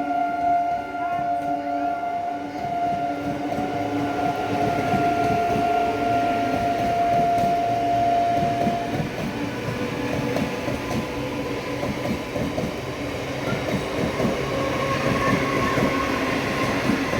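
ICF-built EMU local train passing at speed: its horn sounds one long, steady, two-toned blast for the first nine seconds or so. The rattle and clatter of the coaches' wheels over the rail joints builds up about four seconds in and carries on to the end.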